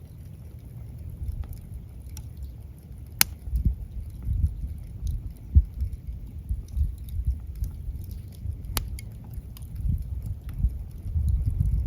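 Wood fire burning, with scattered small crackles and two sharp pops over a low, uneven rumble of flames.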